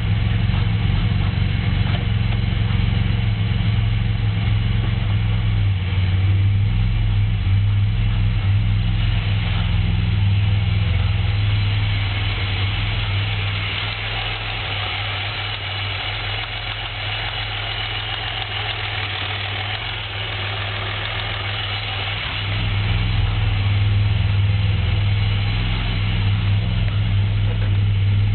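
Pontiac Grand Prix 3.8-litre V6 engine running with a knock from a spun connecting-rod bearing. It gets somewhat quieter for about ten seconds in the middle, then picks up again.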